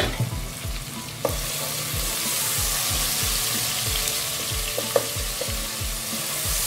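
Sliced onions and tomato sizzling in hot oil in a pot as a wooden slotted spatula stirs them. A sharp knock comes about a second in, after which the sizzle grows louder and holds steady, with the odd small clack of the spatula.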